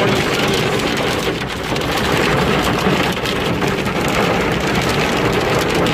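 Hail drumming hard and without let-up on a vehicle's roof and body, a dense, loud clatter of countless small impacts heard from inside the cab.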